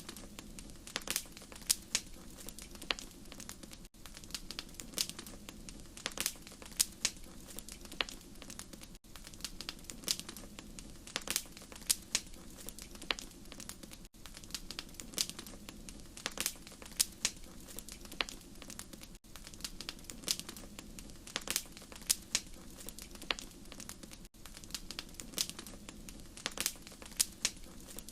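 Wood fire crackling in a fireplace: irregular sharp pops and snaps over a soft steady low rush. There are brief drops to silence about every five seconds.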